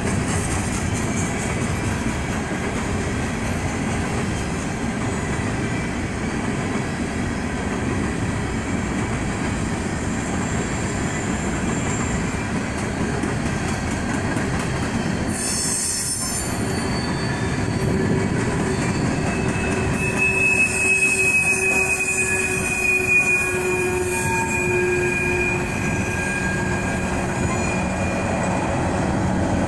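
BNSF coal train hopper cars rolling past with a steady rumble and wheel clatter. From about midway, wheels squeal in long, steady high tones for several seconds. Near the end a low steady hum comes in as a locomotive approaches in the consist.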